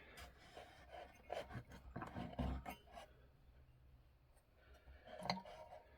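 Faint, scattered small clicks, scrapes and rubbing from hands and tools working on the parts of a clock being taken apart, with a quieter gap in the middle.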